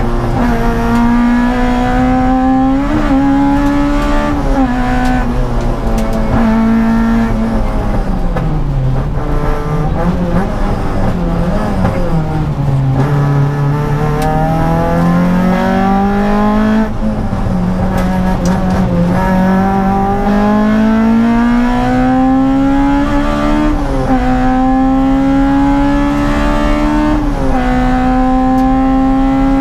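Honda Civic EG rally car's B16 1.6-litre four-cylinder engine heard from inside the cabin at full stage pace. The revs climb hard through the gears with a sudden drop at each upshift, and fall away twice as the car slows before pulling up again.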